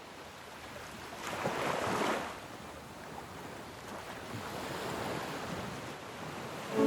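Waves and water washing, with wind buffeting the microphone; the rush swells about a second in and eases after two seconds.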